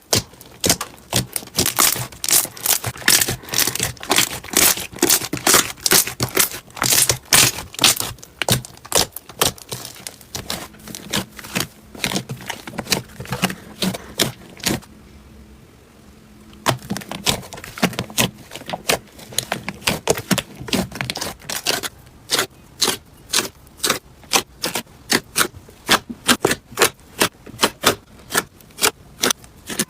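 Slime being pressed and poked by hand, making a rapid run of crackling clicks and pops, several a second, with a brief lull about halfway through.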